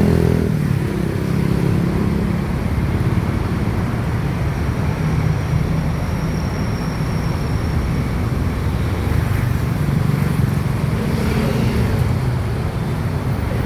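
An engine running steadily, its pitch wavering slightly, with a faint wash of road or traffic noise.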